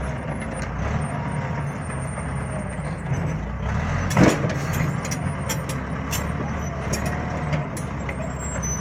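Bulldozer's diesel engine running steadily, with scattered metallic clanks and one loud bang about four seconds in.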